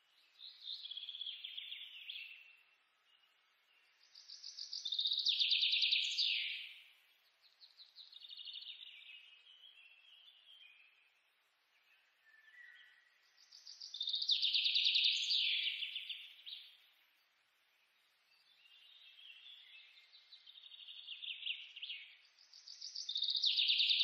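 Bird song: about six rapid trilled phrases, each a few seconds long, swelling and fading, with short gaps between them.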